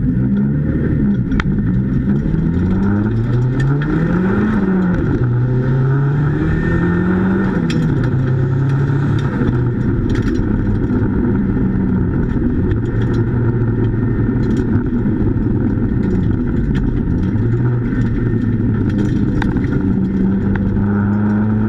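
Nissan 200SX (S14) engine heard from inside the cabin, revving up and down over and over as the car is thrown through the cones, then holding higher steady revs along a straight with a few brief dips.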